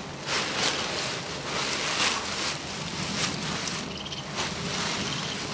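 Dry leaves and twigs of a leaf-padded bed rustling and crackling in uneven surges as a person climbs in and settles down.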